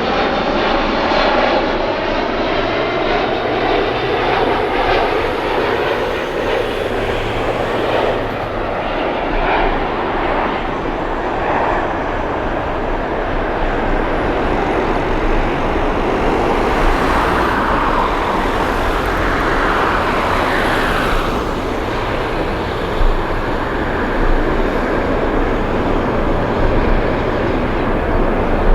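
Jet airliner engines moving past the microphone: a loud, steady rush of jet noise with whining tones that slide in pitch as the aircraft goes by.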